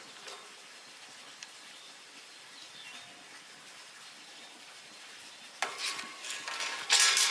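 Electric arc welding on iron bars: a crackling sizzle of the arc that starts about five and a half seconds in and gets louder near the end, after a few seconds of faint background.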